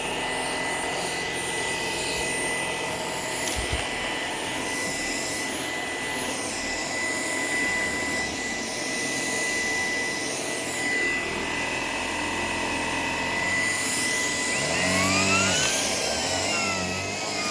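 Shark PowerDetect cordless vacuum running steadily, its motor giving a constant whine over the airflow noise. Near the end the pitch sweeps up and back down.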